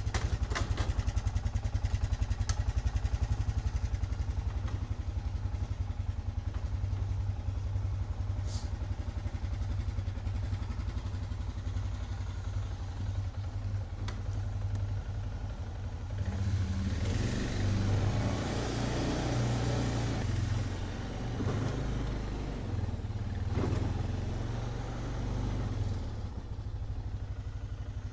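Engine of a trail vehicle running steadily while being ridden, growing louder for a few seconds about two-thirds of the way through as a rushing hiss joins it.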